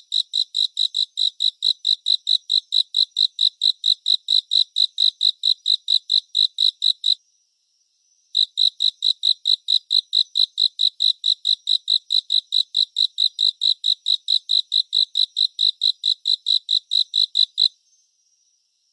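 A cricket chirping in a fast, even series of short high-pitched chirps, about five a second. It pauses for about a second some seven seconds in, resumes, and stops again shortly before the end, leaving only a faint steady high trill.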